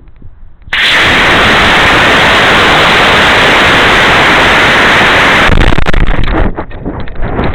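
A loud, steady rushing hiss that starts suddenly about a second in and stops abruptly after about five seconds, followed by gusty wind buffeting the microphone.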